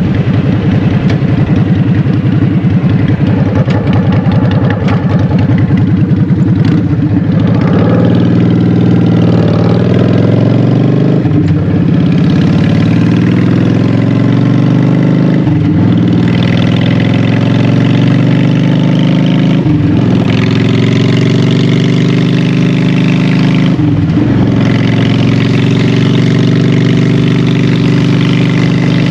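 Honda Shadow 750's V-twin engine running through Vance & Hines Short Shots exhaust pipes. It rumbles low and uneven at first, then pulls through the gears, the note dipping briefly at each shift about every four seconds.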